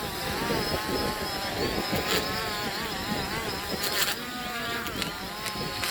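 Small quadcopter drone's propellers buzzing, their pitch wavering up and down as the motors change speed, with two brief sharp hits about two and four seconds in.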